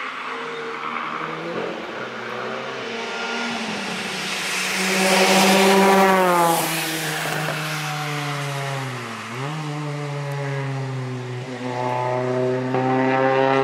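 A car's engine running hard on a racetrack as it approaches and passes close, its pitch bending down as it goes by, with tyre hiss on the wet tarmac at the pass. About nine seconds in the engine note dips briefly and climbs again, and near the end another engine grows louder.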